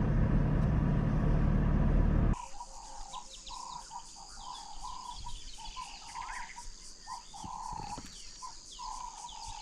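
Loud, even background rumble that cuts off suddenly about two seconds in. Bush ambience follows: insects trilling steadily and high, with birds calling over them, including a string of short repeated lower notes.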